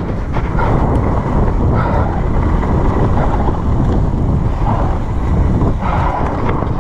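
Rumble and rattle of a mountain bike riding down a wet trail, with wind buffeting the camera microphone and a few sharp knocks from the bike.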